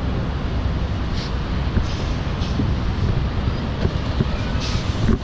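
Semi truck diesel engine running steadily at low speed during straight line backing, a low rumble with a few short hisses.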